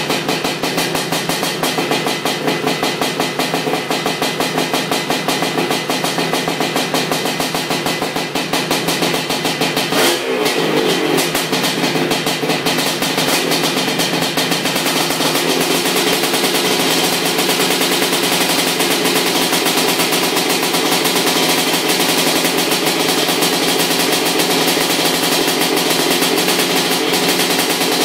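Honda 250R trike's ESR 310 two-stroke engine running steadily on its first heat cycle after the build, a fast even crackle of firing pulses, with a brief change in its note about ten seconds in.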